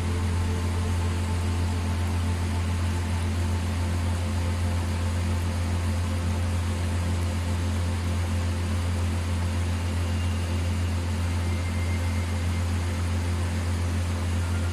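A steady low hum with an even hiss over it, machine-like and unchanging.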